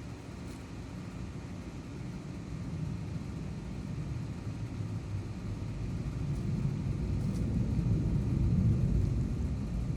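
Low rumble of a passing motor vehicle, swelling steadily louder over several seconds to a peak near the end.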